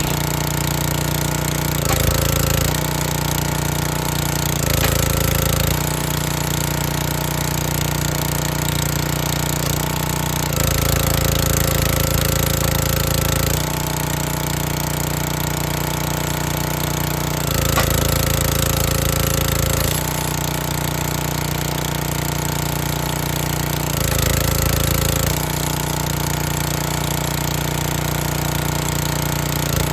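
Gas-engine log splitter running steadily, the engine note shifting and labouring in five stretches of one to three seconds as the splitter works through the wood.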